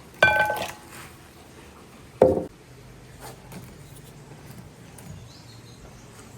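Kitchenware being handled: a ringing metallic clink just after the start, then a single dull knock about two seconds in.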